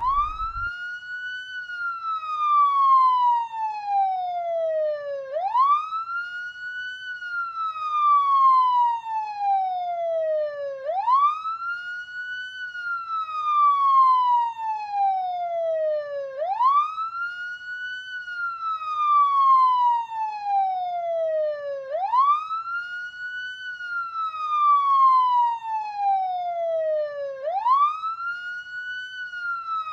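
Police siren in wail mode: a single tone sweeping up quickly, then gliding slowly down, repeating about every five and a half seconds, with the loudness swelling at each peak.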